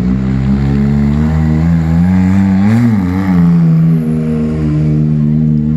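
A rally vehicle's engine running close by, idling unevenly and revving up and back down once about halfway through.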